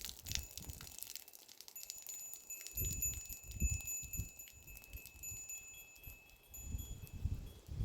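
Small metal bells on goats jingling and ringing as the animals move, with thin sustained tones over many small clinks. Low thuds come in twice, around three seconds in and near the end.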